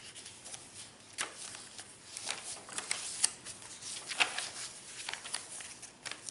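Paper pages and tucked-in cards of a handmade junk journal being turned and handled: an irregular run of light rustles and crisp flicks.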